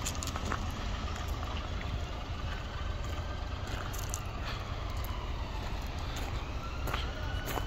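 Peugeot 107's 1.0-litre three-cylinder petrol engine idling steadily, with a few faint clicks over it.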